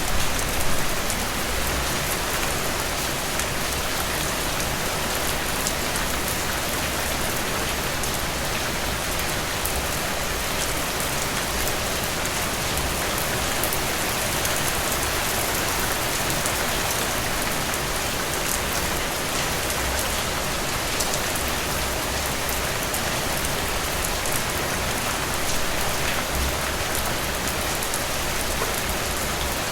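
Steady rain falling: an even hiss made of many small drop ticks, with a few louder drops about a second in.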